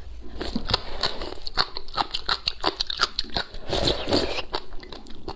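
Crunching and chewing of crisp, spicy shredded papaya: many short, sharp crunches. About four seconds in comes a slurp of rice porridge from the bowl.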